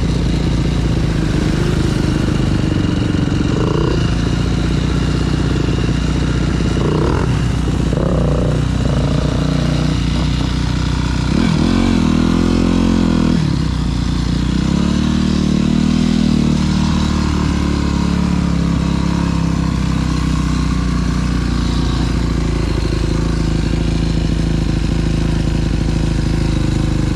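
Dirt bike engine running under way on a trail, revving up and easing off as the rider works the throttle, with one marked rise and fall in pitch about twelve seconds in.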